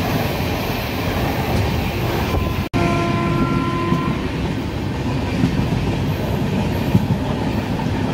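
Moving passenger train heard at an open coach door: the steady running noise of the wheels on the rails. The sound drops out for an instant about two and a half seconds in, then carries on.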